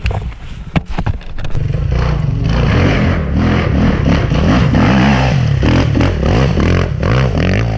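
Enduro dirt bike engine revving up and down under throttle, after a few sharp knocks and clatter in the first second and a half.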